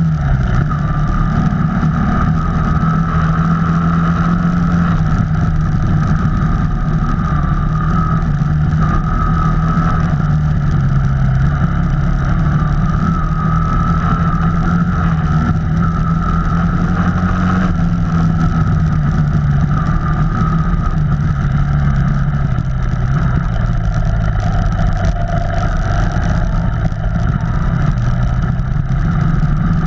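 Off-road vehicle engine running steadily on a trail ride, its pitch rising and falling slightly with the throttle.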